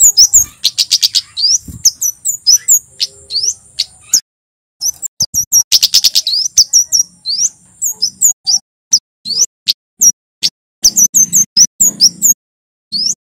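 Male kemade jawa singing: rapid runs of sharp, high-pitched chirps in bursts, with a short pause about four seconds in.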